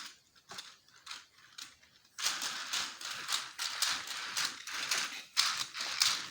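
Toy cars being handled and pushed by hand: scattered light clicks and taps, then from about two seconds in a louder, busy clatter and rattle of small wheels and bodies.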